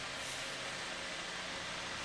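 Electric fan running with a steady hiss.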